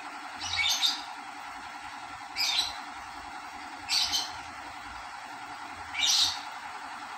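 A bird calling repeatedly: four short, high chirps, one about every one and a half to two seconds, over a steady hum.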